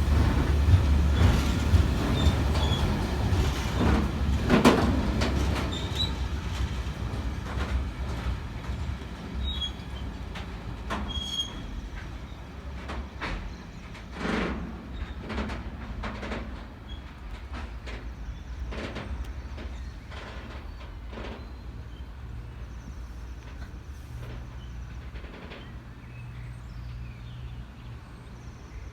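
Diesel-hauled engineers' freight train of wagons passing: a heavy, low rumble at first that fades away as the wagons go by, clanking over the rail joints, with a few brief wheel squeals in the first half.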